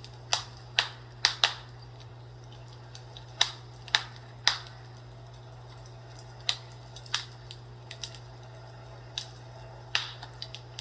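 Fireplace crackling: irregular sharp pops and snaps, sometimes two or three close together, then a few seconds' lull, over a steady low hum.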